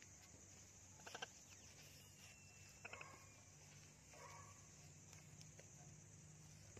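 Faint, soft parrot vocalisations: a few short chirps and chatters a second or so apart, over a low steady hum.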